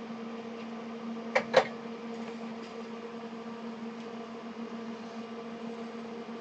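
A steady electrical hum with two sharp clicks in quick succession about a second and a half in.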